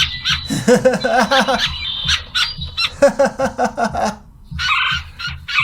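A person's voice imitating bird calls: two runs of quick warbling, squawk-like notes, then a raspy, hissing call near the end. A thin steady high tone sounds under the first half.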